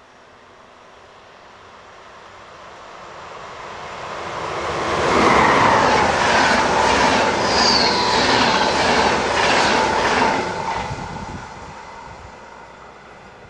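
A train passes at speed. Its noise builds over a few seconds and stays loud for about five seconds, with a regular clatter of wheels over the rails and a steady whine, then fades away near the end.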